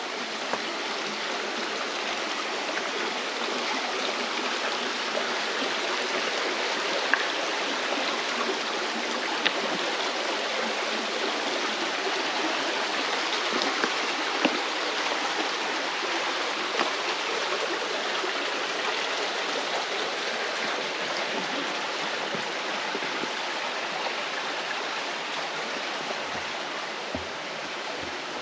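Mountain stream rushing steadily over rocks in a gorge, with a few faint short ticks.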